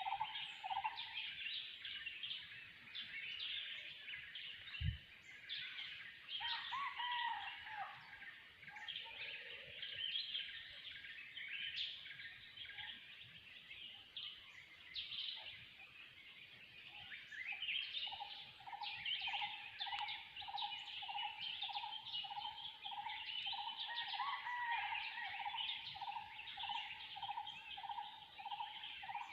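Forest bird chorus: many overlapping high chirping calls, with one bird repeating a single low note about twice a second, which stops after the first second and starts again past the middle. A single short low thump about five seconds in.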